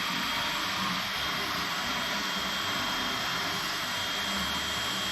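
A machine running steadily: an even rushing noise with a constant high whine, unchanging in level.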